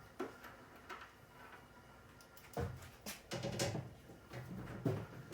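Scattered clicks and knocks of tools and refrigerator parts being handled and clamped into place, about half a dozen separate hits.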